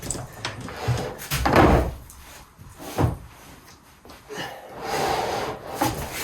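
Heavy rubber conveyor belting being shifted and fitted into place by hand: a few dull thumps and scrapes, the loudest about a second and a half in.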